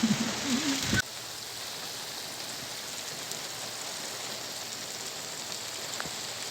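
Steady rain falling, an even hiss. In the first second a pitched, wavering voice-like sound is heard, then cuts off abruptly.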